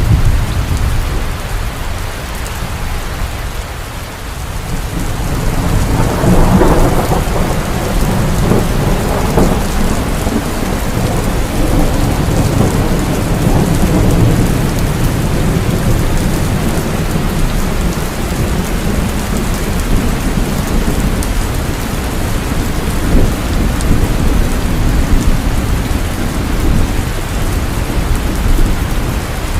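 Heavy rain falling steadily with rolling thunder: the rumble eases a few seconds in, then swells again at about six seconds and keeps rolling through the rest.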